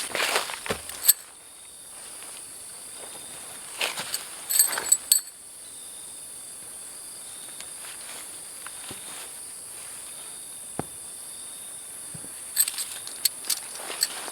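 A steady, high-pitched chorus of jungle insects, broken by short bursts of rustling and clicks near the start, about four seconds in, and near the end.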